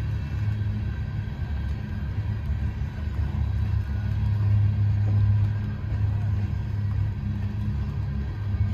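Freight train's covered hopper cars rolling past: a steady low rumble of steel wheels on rail, swelling a little about halfway through.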